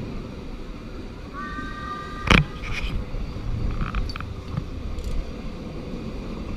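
Steady low rumble of a steam train's carriage running along the track. About two seconds in, a brief high steady tone is followed by a single sharp knock, the loudest sound, and a few lighter clicks come later.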